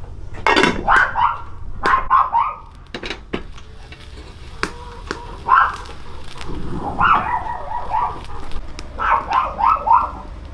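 A dog barking and yipping in five short runs of calls, with a few sharp knocks in between.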